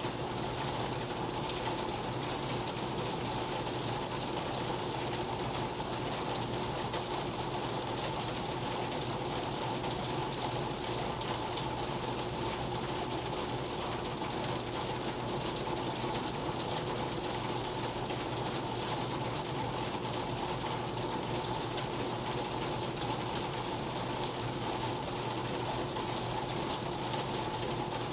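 Steady rain: a dense, even patter with a rapid ticking running through it.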